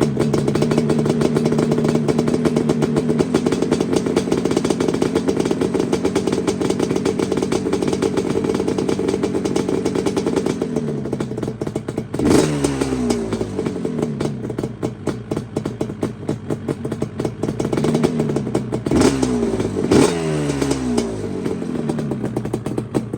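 Yamaha Banshee's twin-cylinder two-stroke engine running after a cold start. About halfway through, the engine speed jumps sharply and falls back, and it does so twice more in quick succession near the end.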